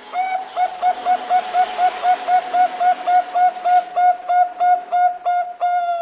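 Perkutut bangkok (zebra dove) cooing: a fast, even run of short coos, about four a second, ending in one longer held note.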